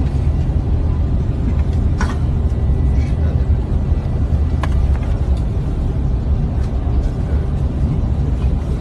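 Steady low rumble of engine and airflow noise inside an airliner cabin in flight, with a couple of faint clicks.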